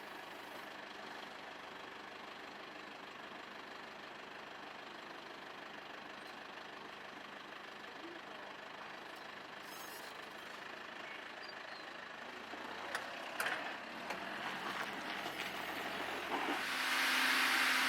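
Sawmill machinery running with a steady engine-like noise; a few seconds before the end it grows louder into an even whir with a steady hum.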